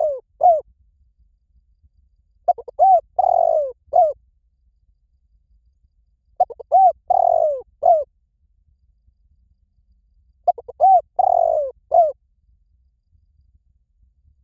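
Spotted dove cooing: one phrase of two short coos, a longer falling croo and a short closing note, repeated about every four seconds, three times in full.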